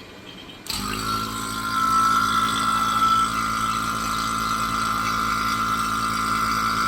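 Electric vacuum pump switched on about a second in, starting at once and running steadily with a hum and a higher whine as it begins evacuating a beverage cooler's refrigeration system. A faint fan noise is heard before it starts.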